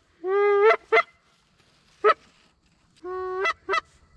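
Geese honking: a long, level low honk followed by two quick higher honks, repeated about three seconds later.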